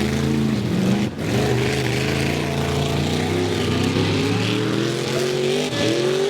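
Truck engine revving hard, its pitch climbing steadily for several seconds, with a sudden drop and recovery about a second in and again near the end.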